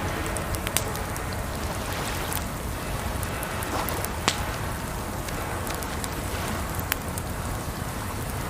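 Campfire crackling, with a few sharp pops scattered through, over a steady rush of water.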